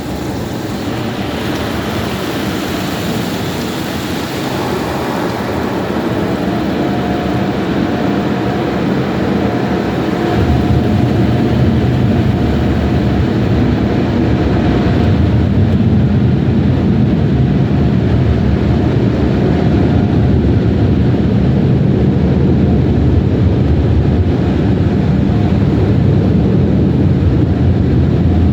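Car wash air-dryer blowers running with a loud, steady rush of air that grows louder about ten seconds in.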